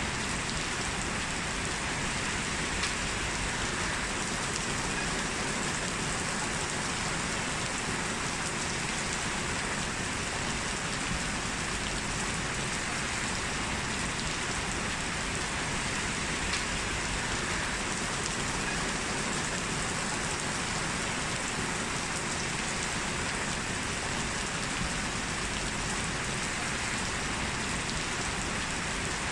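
Heavy rain falling steadily, a constant dense hiss with scattered drop ticks.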